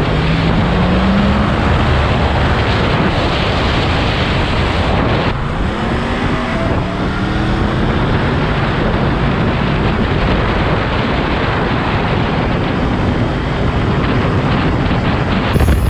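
Yamaha MT-10 998 cc motorcycle being ridden at speed, with heavy wind noise on the microphone over the engine. The engine's pitch rises as it accelerates, and the sound changes abruptly about five seconds in.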